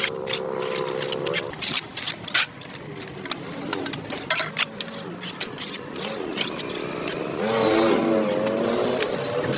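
Irregular scraping and scuffing strokes of a tool on a dirt-covered sidewalk, with a motor vehicle's engine heard in the background and a louder wavering pitched sound about three-quarters of the way through.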